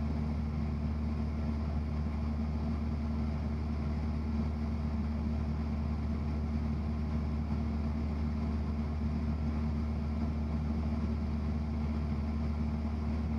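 Cessna 172's piston engine and propeller droning steadily in level flight in the traffic pattern, an even, unchanging hum.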